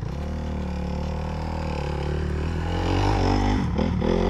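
Dirt bike engine held at high revs, getting louder, then faltering and wavering up and down in pitch near the end.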